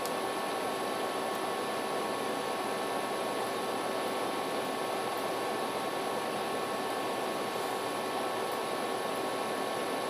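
Steady hiss of background noise with a few faint, unchanging hums, like a fan or electrical noise, and no other events.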